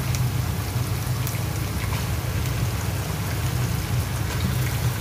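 Raw chicken pieces sizzling as they go into hot oil with sautéed onions and garlic in a pot, a steady crackling hiss with a few light taps, over a steady low hum.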